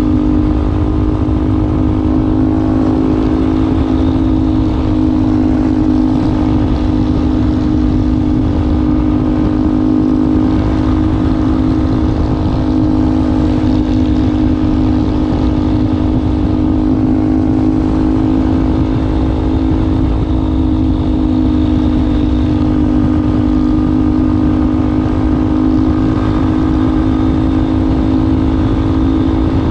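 Yamaha Ténéré 250's single-cylinder four-stroke engine running through an aftermarket WACS muffler, holding a steady, unchanging engine speed.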